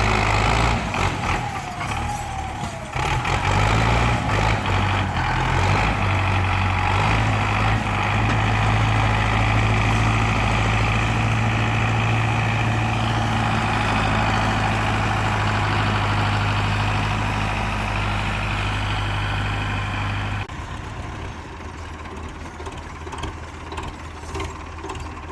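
Tractor diesel engine running with a steady low drone; a little after two-thirds of the way through it drops suddenly to a quieter, rougher running.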